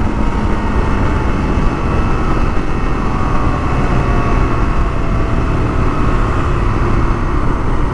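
Single-cylinder four-stroke engine of a 1982 Honda XL500R dirt bike running steadily at riding speed, under heavy wind rush on the microphone.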